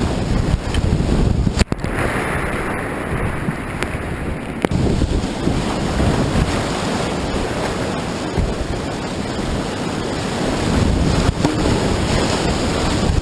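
Whitewater of a river rapid rushing loudly and steadily, with wind buffeting the microphone. About a second and a half in the sound cuts out for an instant, then comes back with its hiss muffled for about three seconds before clearing again.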